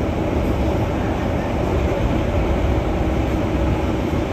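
Keihan 600 series electric train running along the line, a steady rumble of wheels on rail and running gear heard from inside the car.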